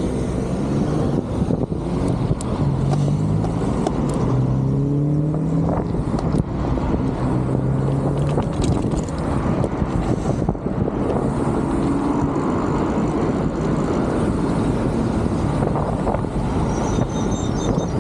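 Strong wind buffeting the microphone, a dense, steady low rumble, with a humming drone that rises slowly in pitch during the first few seconds and again briefly around the middle.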